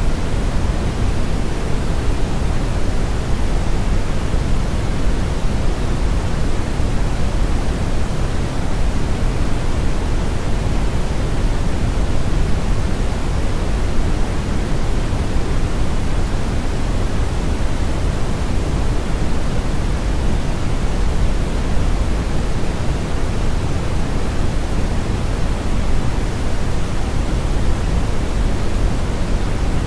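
Brown noise: a steady, even rush, heaviest in the low end and rolling off toward the top, with no change or events.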